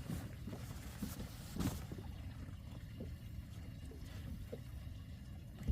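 Small boat moving slowly on the water: a steady low rumble with faint small water sounds and light knocks.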